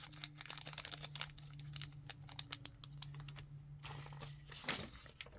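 Light, quick clicks and crinkles of small bagged beads and plastic packaging being handled, over a faint steady hum.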